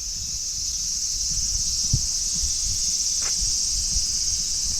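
A steady, high-pitched insect chorus that grows louder over the first second, with low thuds of footsteps underneath, one sharper about two seconds in.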